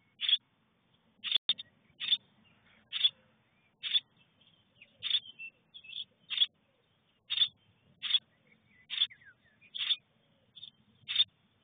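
Young songbird in a nest box calling over and over: short, sharp, high calls, a little more than one a second. One sharp tap about a second and a half in.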